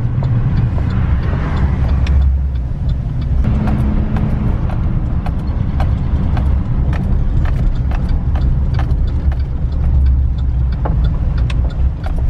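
Car running at speed, heard from inside: a steady low engine and road rumble with scattered light clicks and rattles.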